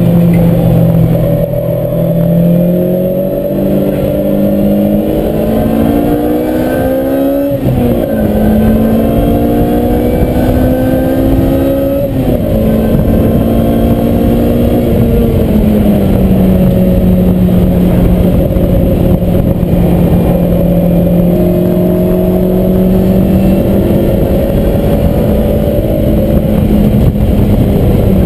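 Lotus Exige's four-cylinder engine heard from inside the cabin, accelerating hard with its pitch climbing through the gears and two upshifts, about 7.5 and 12 seconds in. About 15 seconds in the note eases down and then holds steady, with road and wind noise throughout.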